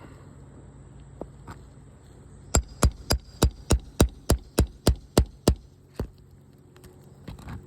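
A roofing hammer striking a quick, even run of about eleven sharp blows, roughly three a second, starting about two and a half seconds in, then one lighter knock a moment later.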